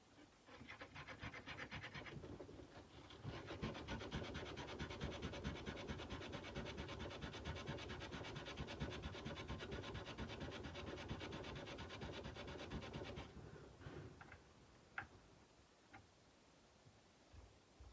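Sandpaper rubbed by hand along a kukri's steel blade in fast, even back-and-forth strokes, with a short pause about two seconds in. The sanding stops about thirteen seconds in, followed by a few light clicks.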